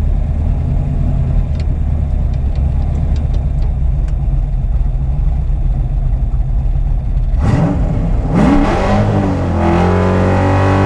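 A car engine runs with a steady low rumble, then is revved about seven seconds in, its pitch sweeping upward. Near the end it settles into a strong, even note at high revs, as under hard acceleration.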